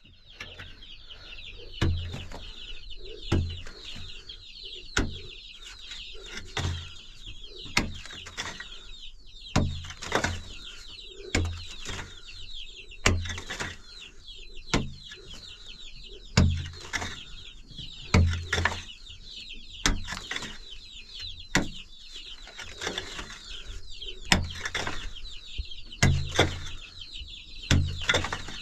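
Continuous high chirping of many small birds, with a dull thud about every second and a half.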